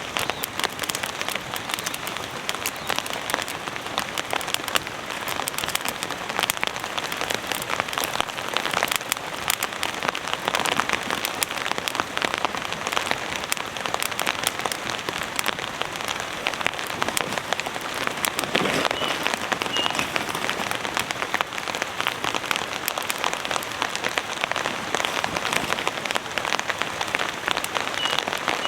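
Heavy rain falling steadily on the fabric of a tent shelter, a dense, even patter of countless drops.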